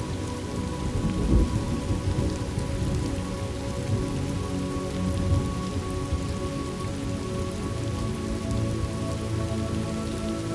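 Steady heavy rain with low rolling thunder swelling about a second and a half in and again around five seconds, over a bed of soft held tones.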